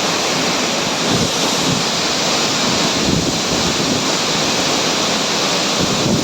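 Waterfall rushing steadily and loudly, with wind buffeting the microphone now and then.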